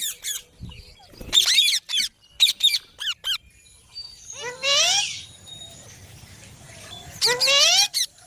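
Pet rose-ringed parakeets calling: several short squeaky calls in the first three seconds, then two longer, louder harsh calls, one about four and a half seconds in and one near the end.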